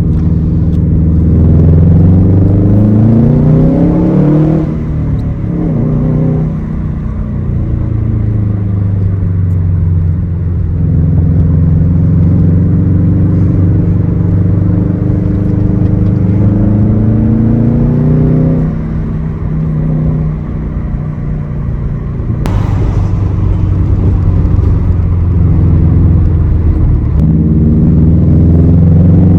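2006 Subaru STI's turbocharged flat-four running through a Tomei exhaust while driving, the engine note climbing under acceleration and dropping at gear changes several times, with an abrupt jump about 22 seconds in.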